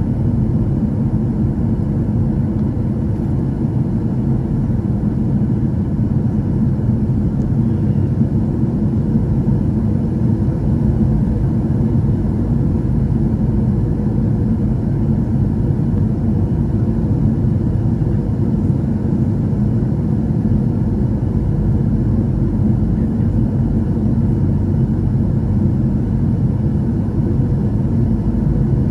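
Boeing 737-800 in flight on final approach: the steady low rumble of its engines and airflow, with a faint steady hum.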